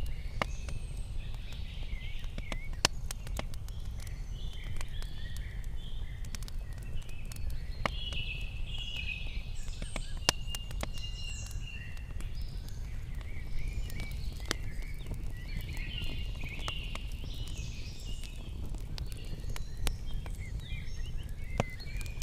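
Small birds singing and chirping, with short whistles and gliding calls throughout, over a steady low rumble and scattered sharp clicks.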